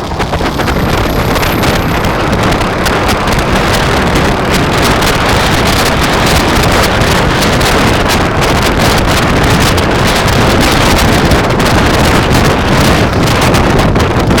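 Wind rushing over the microphone on a moving bicycle, loud and steady, broken by many short crackles and knocks.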